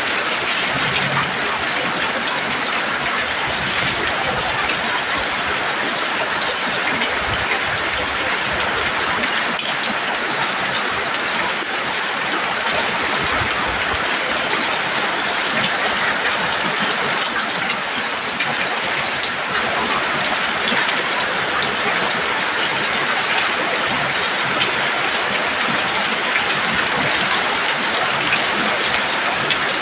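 Heavy rain pouring steadily: a dense, even hiss of countless drops that neither builds nor eases.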